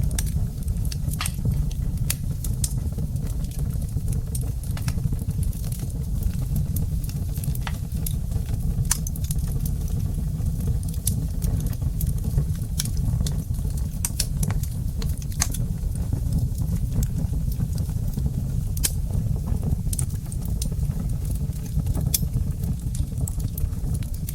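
Wood fire in a fireplace crackling: sharp, irregular pops and snaps over a steady low rumble of the flames.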